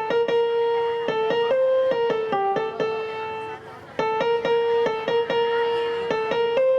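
Electronic keyboard playing a simple single-note melody of held notes, with a short break just before four seconds in before the tune resumes.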